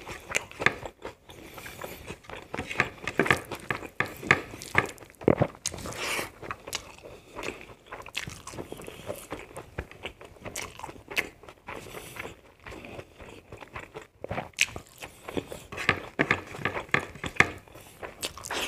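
Close-miked eating sounds: a man chewing handfuls of rice and vegetable curry, with many short wet mouth clicks and smacks at an irregular pace.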